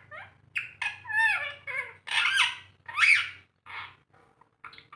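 Ring-necked parakeet giving a quick string of short squawks and chattering calls, several of them sliding down in pitch.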